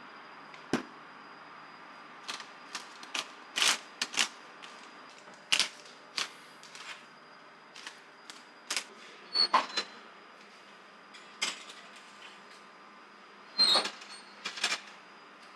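Irregular sharp clicks and light knocks of small hard objects being handled and set down, some in quick pairs, over a steady background hiss.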